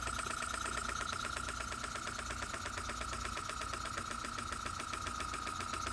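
Small single-cylinder, single-acting spool-valve model steam engine running on compressed air from an airbrush compressor, giving a rapid, even run of exhaust puffs and mechanical clicks. A steady high whine sounds alongside.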